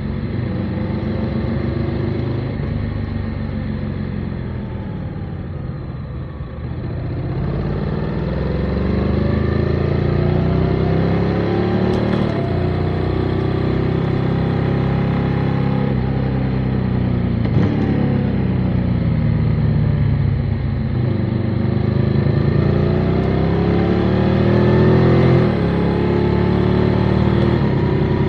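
Motorcycle engine running under way, its note rising and falling with the throttle. It eases off about six seconds in, then climbs again, dropping back in pitch several times.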